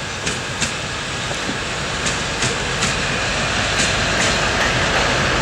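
TEP70BS diesel passenger locomotive and its coach pulling away past the listener, the rolling noise growing steadily louder, with wheels clicking over rail joints, often in pairs.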